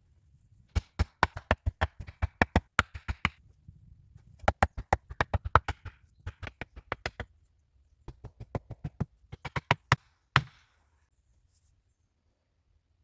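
Quick sharp taps, about six a second, in three runs of two to three seconds each; the last run ends in one louder knock.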